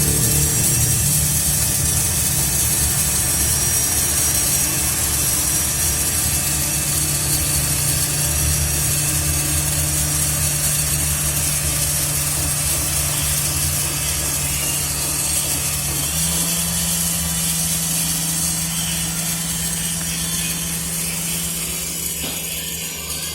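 Small battery motor of a toy washing machine running steadily with a whirring hum and a high hiss; the hum steps slightly higher in pitch about two-thirds of the way through.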